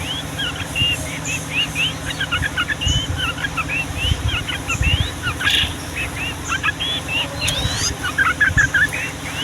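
Yellow-vented bulbuls singing in a long, unbroken run of short whistled notes that sweep up and down, several birds overlapping in a busy chatter, with a low rumble underneath.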